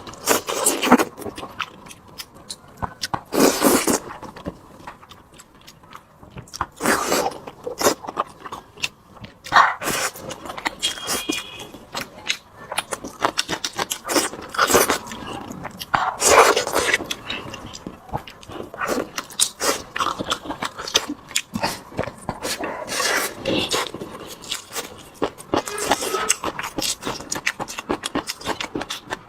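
Eating sounds: irregular chewing and smacking while braised pork is eaten.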